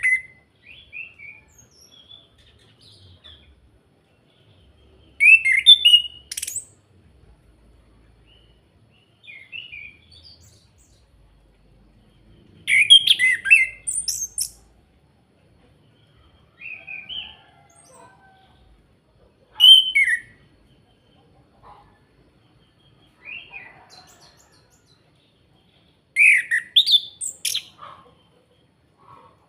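Chestnut-capped thrush singing in short, varied phrases of quick high notes and glides, about eight phrases with pauses of a second or more between them. It is a lure song meant to set other birds singing.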